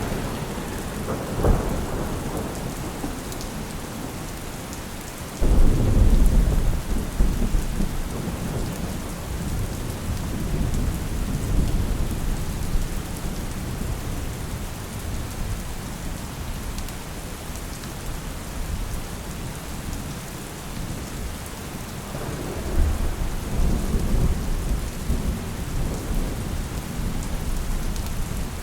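Steady rain with rolling thunder: a short crack about a second and a half in, a loud rumble that breaks in suddenly about five seconds in and fades over several seconds, and another rumble about twenty-two seconds in.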